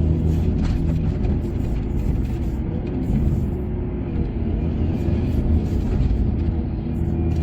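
Heavy diesel machinery running steadily at a low, rumbling pitch, with background music underneath.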